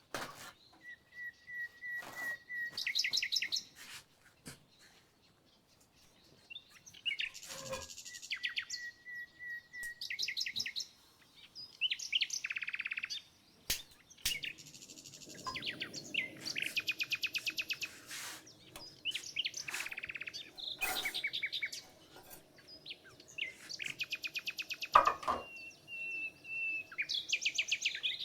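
Songbirds singing: fast, repeated trills and chirps, with a few held whistled notes. A few sharp clicks fall between them, and the loudest is a knock near the end.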